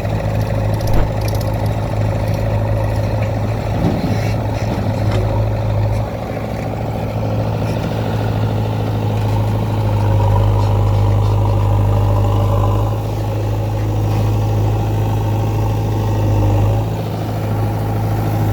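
Heavy diesel engine of field-levelling machinery running steadily with a deep hum, growing louder about halfway through and easing off near the end.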